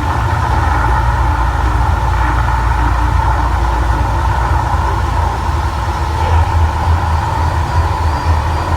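Mirage volcano show's eruption effects played loud over outdoor speakers: a steady, deep rumble with a rushing roar on top.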